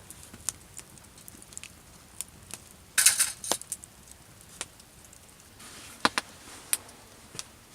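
Irregular sharp clicks and knocks, with a louder rattling cluster about three seconds in and a few more knocks around six seconds in.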